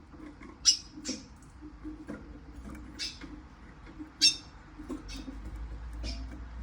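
Siskin giving short, sharp, high-pitched chirps, about six spread over several seconds, two of them much louder than the rest.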